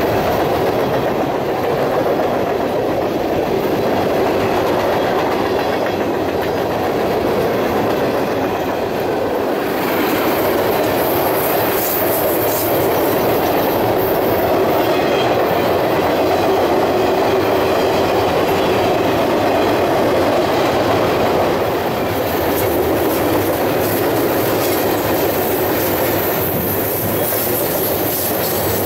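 A mixed freight train of boxcars, tank cars and gondolas rolling past close by: a steady, unbroken noise of steel wheels running on the rails.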